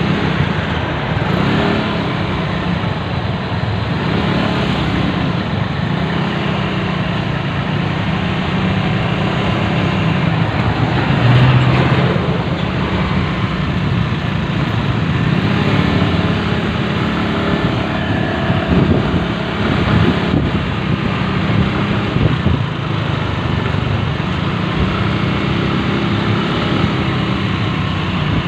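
Motorcycle engine running on a ride through city traffic, its pitch shifting up and down with speed, over road noise and other vehicles' engines. A louder, deeper engine sound stands out about eleven seconds in.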